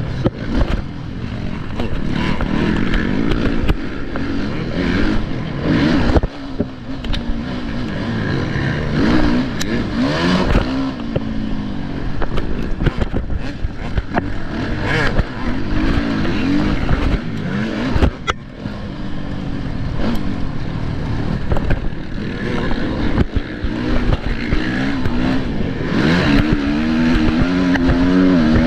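Motocross bike engines revving hard and backing off over and over, the pitch climbing and dropping with the throttle, with scattered clattering knocks.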